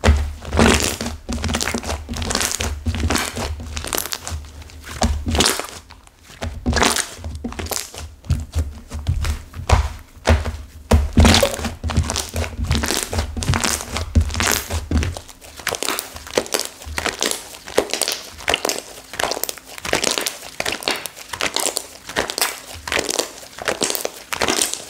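Slime with hardened clay mixed through it being squeezed and pressed by hand, giving dense, irregular crunching and crackling.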